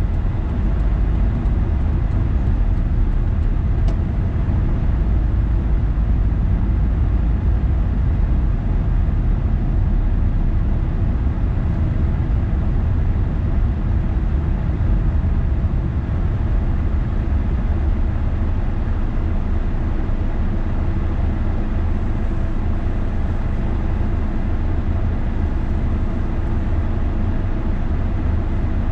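A car driving, with a steady low rumble of road and engine noise that barely changes.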